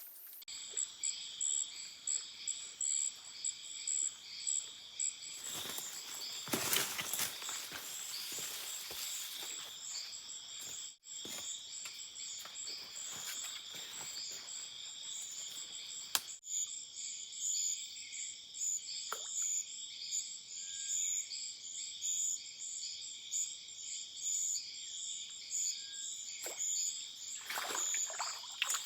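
Rainforest chorus of insects and frogs: several high-pitched calls pulsing steadily together, with a burst of rustling noise around six to nine seconds in and a couple of sharp clicks.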